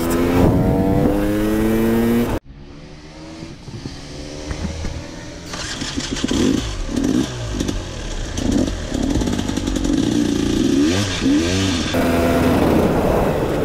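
Enduro dirt bike engine pulling up through the revs on the road; it cuts off suddenly about two and a half seconds in. After a quieter stretch the engine is revved up and down in repeated blips off-road, and near the end steady road riding comes back.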